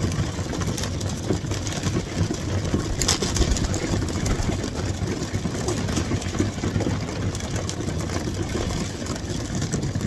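Racing pigeons feeding on seed thrown onto the loft floor: many small pecking and scattering clicks over a steady low rumble.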